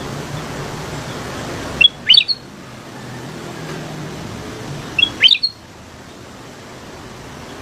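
Kutilang emas, a bulbul, giving two short, bright chirping phrases about three seconds apart. Each phrase is a quick burst of a few sharp, falling notes, heard over a steady low background hum.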